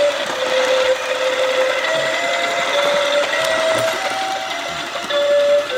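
Electronic toy tune from a toddler's Elmo ride-on airplane: a simple melody of single plain notes, each about a third to half a second long, over a steady hiss.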